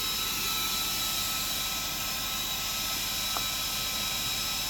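Cooling fan of a ToAuto A3 PCP air compressor, powered from a truck battery, running steadily with a constant whine while the compressor pump itself is not yet switched on. A small click sounds about three and a half seconds in.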